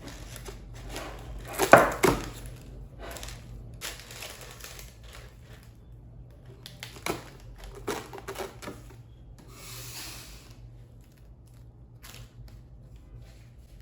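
Handling sounds on a kitchen counter: irregular rubbing and rustling swishes, with a sharp knock about two seconds in and a few lighter clicks later.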